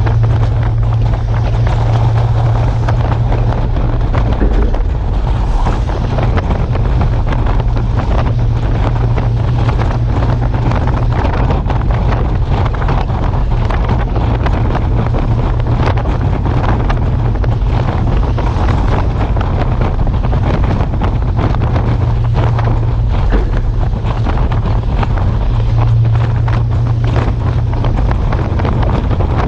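Heavy truck's engine running steadily, a constant low drone with wind buffeting the microphone.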